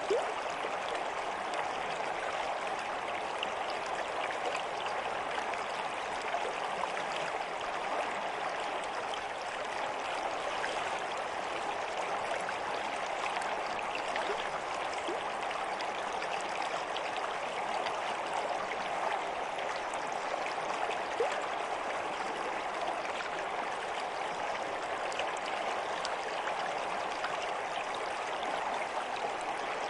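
Water of a stream flowing steadily.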